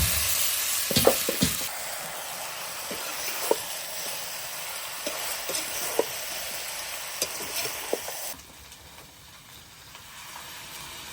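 Chunks of village chicken sizzling as they fry in hot mustard oil, with a ladle knocking and scraping against the pan as they are stirred. The sizzle turns sharply quieter a little past eight seconds in.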